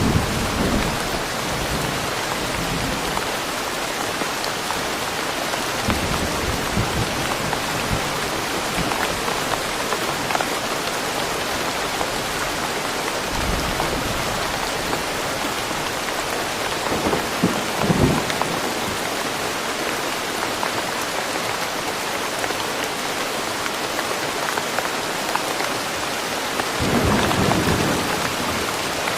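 Steady rain falling in a forest, an even hiss, with low thunder rumbles swelling now and then, the clearest near the start, about 18 s in, and near the end.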